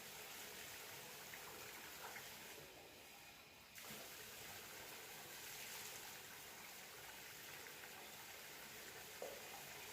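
Faint, steady hiss of faucet water running, which briefly thins out about three seconds in.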